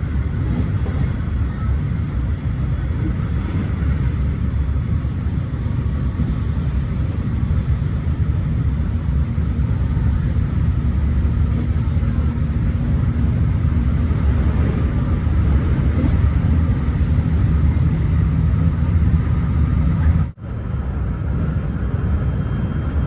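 Electric train running, a steady low rumble, with a brief break about twenty seconds in.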